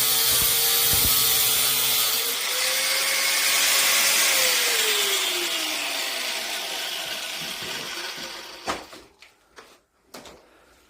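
A power tool motor runs steadily at high speed with a loud hiss. After about four seconds its pitch glides down as it winds down and fades. A sharp knock comes near the end, followed by a few faint knocks.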